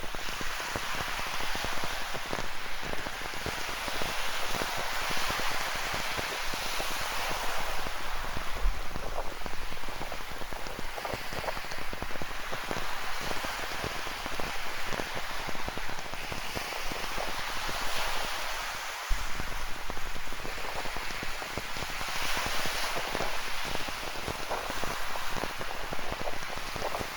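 Steady rain falling, with many close drops pattering, over a continuous wash of ocean surf. The sound dips briefly and jumps back abruptly about two-thirds of the way through.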